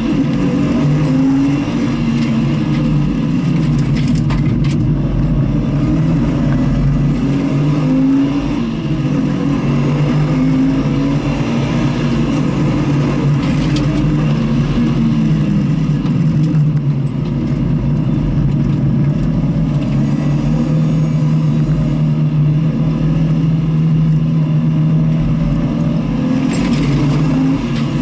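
Car engine under hard driving on a race circuit, its pitch repeatedly rising under acceleration and dropping at gear changes and braking. The loudness stays steady throughout.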